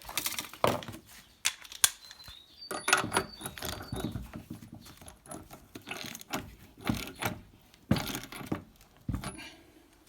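Irregular metallic clinks, knocks and rattles from handling a spark plug and its test rig.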